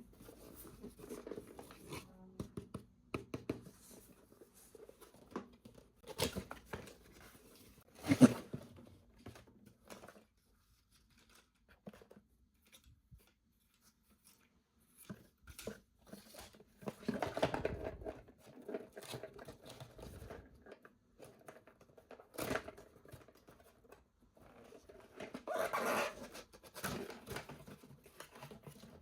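Toy packaging being handled and opened by hand: scattered clicks and rustles, a sharp knock about eight seconds in, and longer bursts of rustling and tearing a little after halfway and again near the end.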